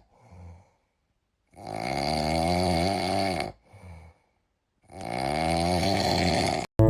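Snoring sound effect: two long snores, each about two seconds, with a short gap between them.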